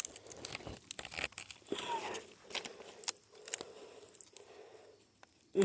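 Irregular crackling, snapping and rustling of leafy plant stems and twigs being handled and broken.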